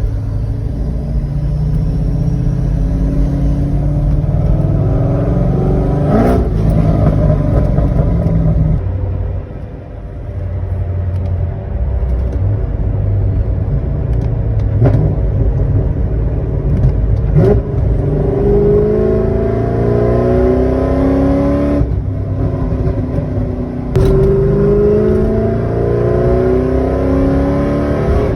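C6 Corvette V8 exhaust through long-tube headers, a 3-inch X-pipe and Corsa Sport mufflers, pulling hard: the note climbs in pitch and drops back several times, as in upshifts, across a few short clips cut together.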